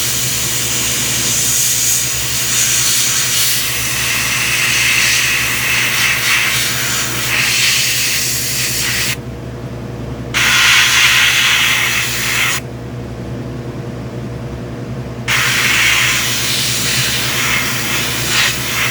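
Airbrush spraying paint in long hissing passes, cutting off briefly about halfway through and again for a few seconds later before starting again, over a steady low hum. The paint goes on in light, gradual coats over pre-shading.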